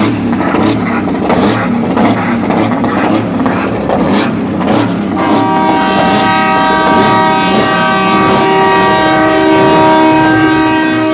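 Train-style air horns on a show truck sounding one long, held chord from about five seconds in, with a lower tone joining near the end. Before that comes a loud pulsing noise.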